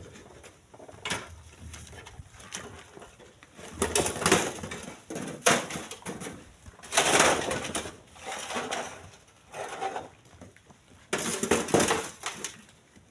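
Split stones being tossed by hand into a truck bed: irregular knocks and scraping clatters every second or so, some short and some lasting about half a second.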